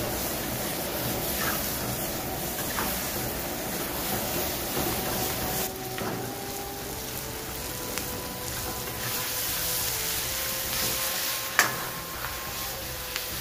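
Onions and bell peppers sizzling steadily as they fry in oil in a steel kadai over a gas burner, with a ladle stirring them. A single sharp clack near the end is the loudest sound.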